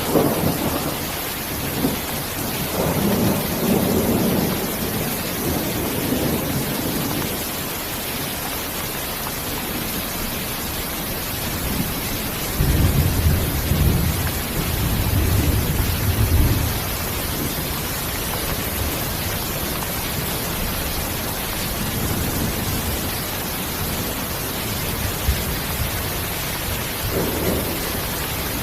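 Steady, even hiss of heavy rain, with low rolls of thunder swelling in under it near the start and again, most strongly, about halfway through.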